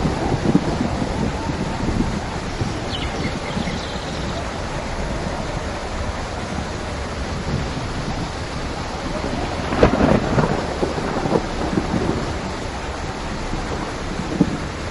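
Steady heavy rain in a thunderstorm, with low rolling thunder underneath. A louder thunder rumble comes about ten seconds in.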